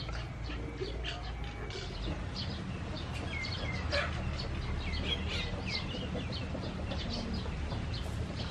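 Birds chirping, many short calls one after another, over a low steady rumble.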